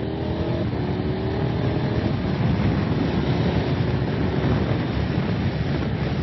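A motorcycle engine note rises under acceleration, takes a step in pitch a little over half a second in, and fades out after about two seconds into a steady rush of wind and road noise. It is picked up by a helmet comms microphone.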